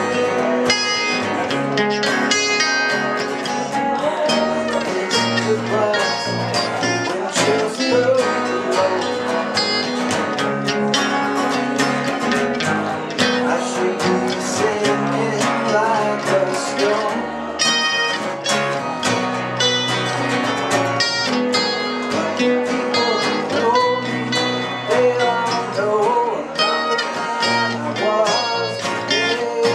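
Acoustic band music: guitar and dobro playing a country-blues passage with steady picked notes.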